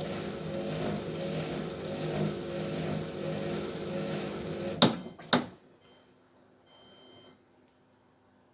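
Hotpoint washing machine humming steadily, then two sharp clicks about five seconds in as the hum cuts out, followed by a short electronic beep and then a longer beep from its control panel.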